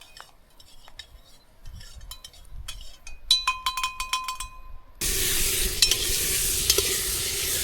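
Metal utensils clinking and scraping against a cooking pot, with a quick run of ringing metallic strikes a little past three seconds in. From about five seconds in, food sizzles loudly and steadily as it fries in the pot.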